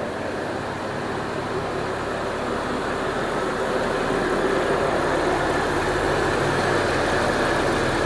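A freshly swapped 3.7-litre V6 in a 2002 Jeep Liberty idling steadily while it warms up, with a steady rushing noise that grows somewhat louder about halfway through.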